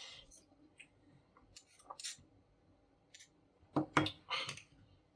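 Hands working on the laminator's parts: a series of small clicks and light scrapes. The loudest is a pair of sharp clicks nearly four seconds in, followed by a short scrape.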